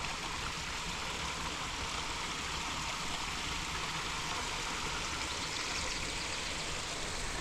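Steady rush of running water in a garden pond, an even splashing wash with no breaks.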